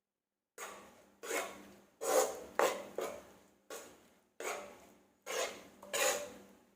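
A kitchen utensil scraping and rubbing against a bowl as salad ingredients are mixed, in about nine separate rasping strokes, roughly one every 0.7 seconds.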